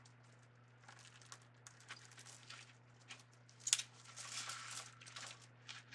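Deco mesh rustling and crinkling as it is handled and worked into a wreath, with scattered light clicks and one sharp click a little past halfway. A faint steady hum runs underneath.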